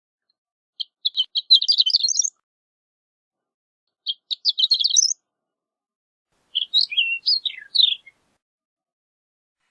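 Horned lark singing three short phrases of high tinkling notes. The first two are quick runs of notes that rise in pitch at the end; the third, near the end, is a few separate notes that slur downward.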